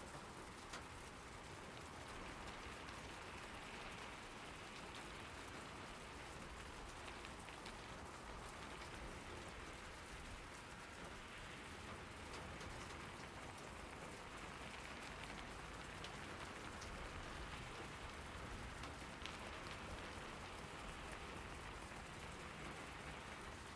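Steady rainfall, with many single drops ticking against a surface over an even wash of rain.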